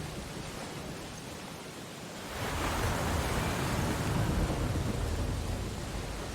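Ocean waves: a steady wash of surf, with one wave swelling in about two seconds in, peaking midway and slowly receding.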